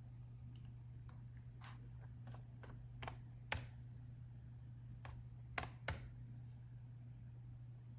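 Laptop keyboard being typed on: slow, irregular keystrokes with pauses between them, a few taps louder than the rest. A steady low hum runs underneath.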